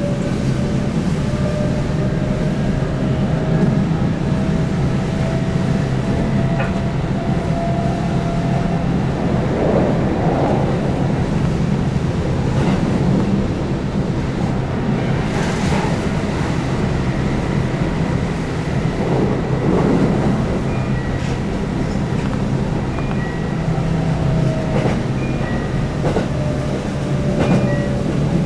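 Keihan 8000 series electric train running at speed: a steady rumble of wheels on rail with scattered rail-joint clicks. The whine of its field-added-excitation-controlled DC traction motors rises slightly in the first few seconds and sinks again near the end.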